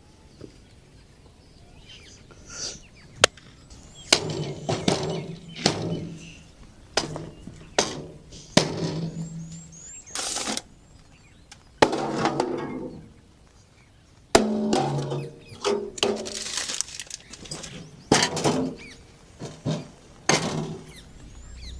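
Hatchet chopping firewood: sharp, irregular strikes about one a second, each with a short ringing tail.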